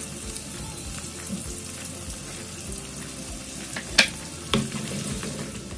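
Minced garlic and onions sizzling steadily as they fry in butter and oil in a nonstick wok. A sharp click comes about four seconds in, with a smaller knock half a second later.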